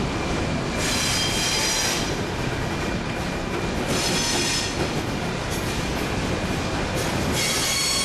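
Excursion train running on the rails, heard from an open-air passenger car: a steady rumble of wheels on track, with high-pitched wheel squeal coming in three times, about a second in, around four seconds in, and near the end.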